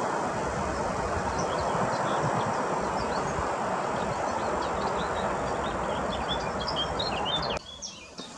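A steady rushing noise with small birds chirping above it in quick high notes; near the end the rushing stops abruptly, leaving the birds chirping clearly.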